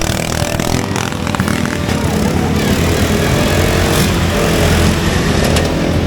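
Racing riding lawn mower engines running hard under load, their pitch wavering as the throttle changes.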